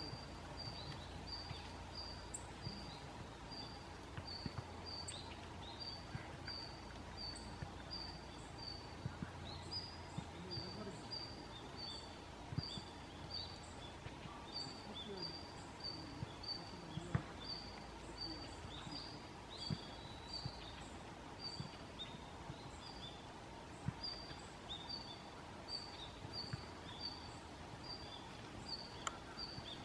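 Red-flanked bluetail giving its contact calls: a short high note repeated about twice a second in a long even series, with fainter lower notes and soft ticks among them.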